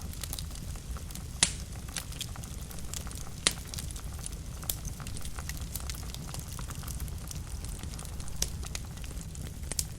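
Wood fire burning in a fireplace: a steady low rumble of flame with irregular crackles and sharp pops, the loudest pops about one and a half and three and a half seconds in.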